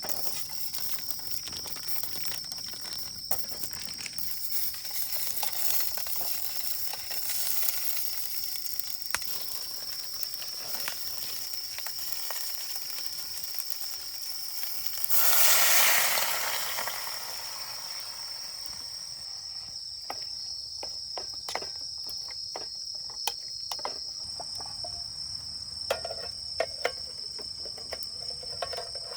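Crickets trilling steadily in two high continuous tones. About halfway through, a loud hiss rises and fades over a second or so. Scattered light clicks and taps follow near the end.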